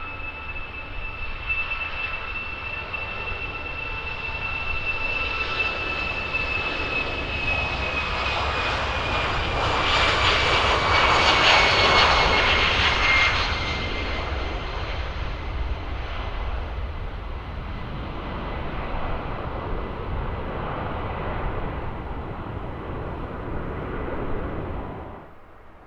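Jet aircraft passing close by at an airport, its engines running with a high whine that slowly falls in pitch as it goes past. The noise builds to its loudest about halfway through, eases off, and cuts off abruptly just before the end.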